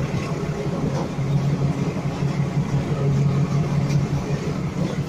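Steady low rumble of a moving passenger train heard from the open window of one of its carriages, the drone swelling and easing slightly with a few faint knocks from the wheels on the rail joints.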